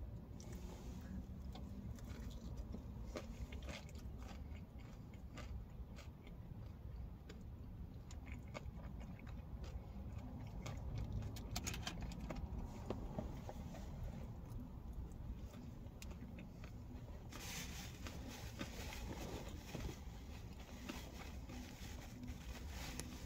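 Close-up chewing and biting of biscuits and gravy, with scattered light clicks from a plastic takeout container and fork over a steady low hum. A few seconds of louder hiss come about three-quarters of the way through.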